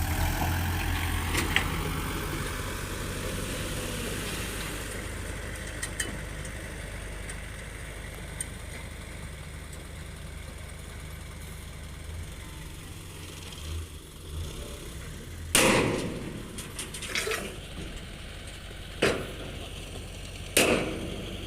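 Heavy diesel vehicle engine running low and steady, with several loud metallic clanks in the second half.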